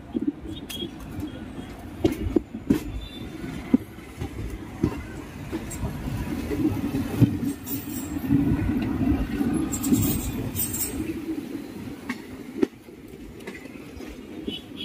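Indian Railways express train's coaches running on the track: a steady rumble of wheels on rail with irregular clicks and knocks, a little louder in the middle.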